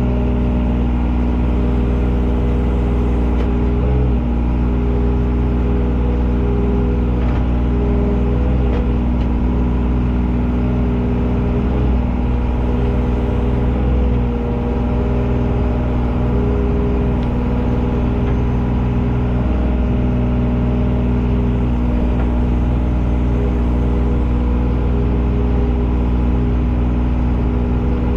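Engine of a work machine running steadily at a constant, fairly high speed, heard close up with an even drone and no change in pitch.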